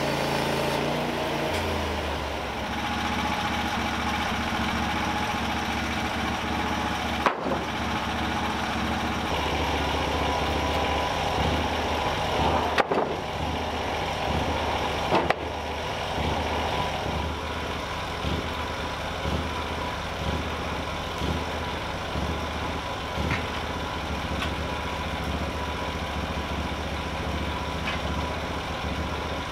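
An engine running steadily at low speed, settling to a lower pitch about two seconds in, with a few sharp knocks now and then.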